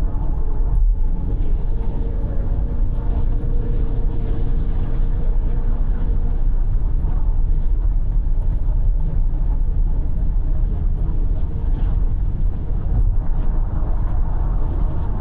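Car driving at highway speed, heard inside the cabin: a steady rumble of tyre and road noise with the engine's drone underneath.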